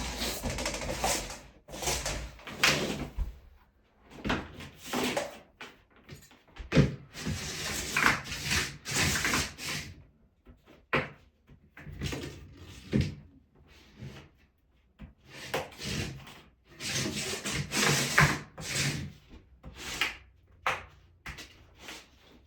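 Heating cable being pressed into the studs of a Schluter Ditra-Heat plastic membrane by hand: irregular bursts of rubbing and scraping with a few sharp knocks.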